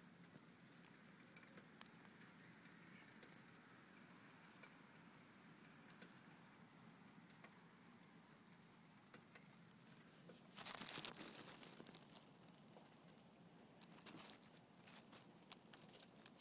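A Chihuahua gnawing and chewing corn kernels off the cob: faint scattered clicks and crunches, with a louder burst of crunching about eleven seconds in.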